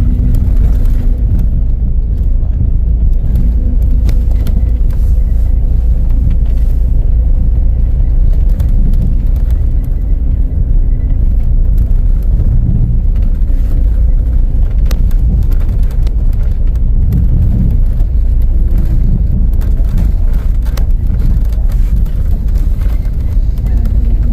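Steady low rumble of a moving road vehicle, heard from inside, its level even throughout.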